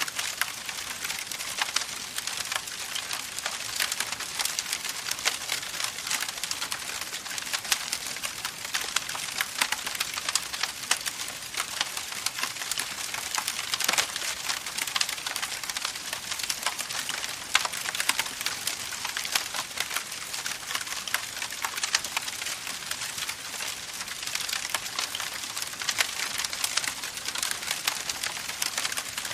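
Campfire crackling steadily, a dense stream of small pops and snaps over a soft hiss of burning wood.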